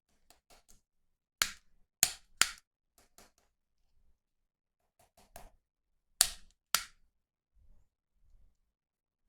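Sharp clicks and snaps of hard plastic being handled during a toy unboxing. There are two groups of loud snaps, three about a second in and two a little after six seconds, with fainter ticks between them and a few soft knocks near the end.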